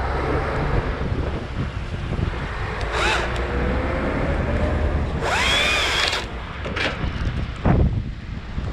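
Battery top-handle chainsaw (Stihl MSA 161 T) revved in several short bursts, each whine rising as the motor spins up, the longest lasting about a second, while cutting branches. Wind rumbles on the microphone underneath.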